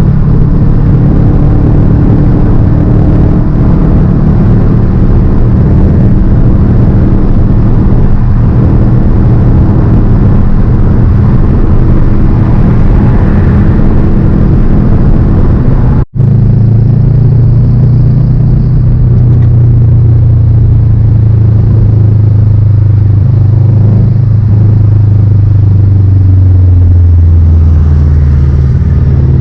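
Subaru flat-four boxer engine and exhaust running under way, a steady rumbling drone. After a brief cut about halfway through, the engine note falls steadily near the end as the revs come down.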